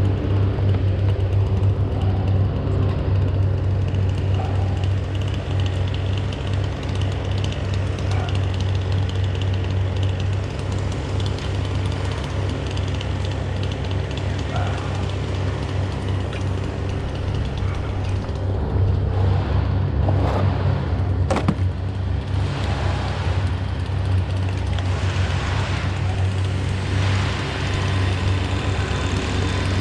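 An engine running steadily at one speed, a constant low hum, with a single sharp click about two-thirds of the way through.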